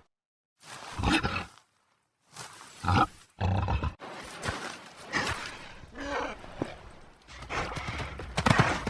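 A series of short animal calls and sounds, spread out with gaps between them, after a brief moment of silence at the start.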